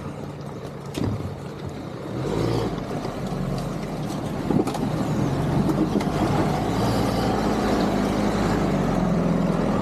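A 4x4 vehicle's engine running under load as it drives an off-road lane obstacle. It grows louder from about two seconds in and then holds steady.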